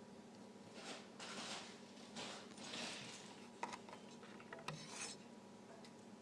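A few short scraping or rubbing sounds and a couple of sharp clicks, over a faint steady hum.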